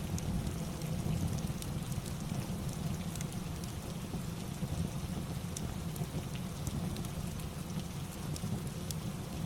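Steady rain ambience with a deep low rumble and scattered light sharp ticks throughout.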